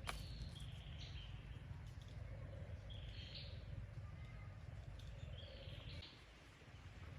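A bird calling repeatedly: a few short, high calls spaced a second or two apart, each stepping up in pitch at its end, over a steady low rumble.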